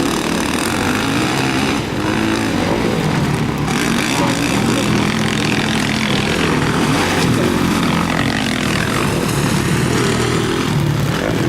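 Motocross motorcycles racing on the track, engines running and revving, their pitch rising and falling as the bikes accelerate and shift.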